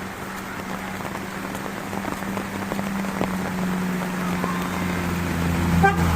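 Heavy rain falling, many drops pattering and splashing on surfaces. A low steady hum grows louder near the end.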